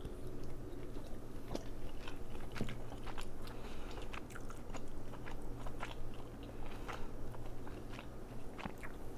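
A person chewing and biting crab close to the microphone: irregular wet clicks and smacks from the mouth.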